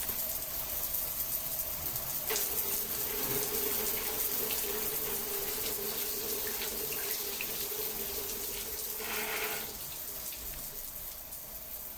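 Water running and trickling steadily, with scattered drips. A steady low tone runs through the water from about two seconds in; it stops shortly before the end, and the sound gets a little quieter.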